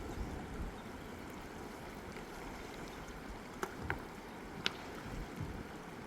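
Steady rushing of a fast mountain river, with three short, sharp clicks a little past the middle.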